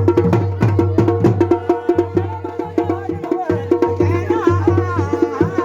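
Garhwali dhol and damau drums playing a fast, driving rhythm of rapid strokes over a steady deep booming tone. A wavering melody joins over the drums about four seconds in.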